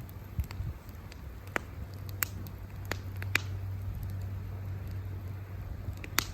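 Wood campfire crackling: irregular sharp pops and snaps of burning wood, a few of them much louder, over a low steady rumble.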